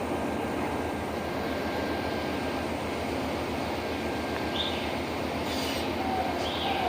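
A train running past with a steady rumble and rail noise. Near the end there are a couple of short high chirps.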